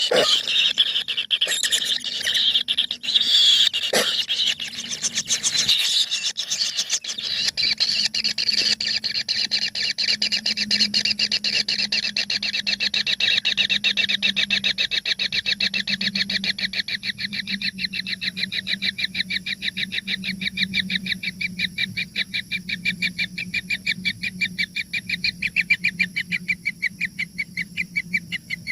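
A brood of nestling birds clamouring inside a nest hole: a fast, unbroken train of harsh, rasping begging calls, with a faint low hum underneath.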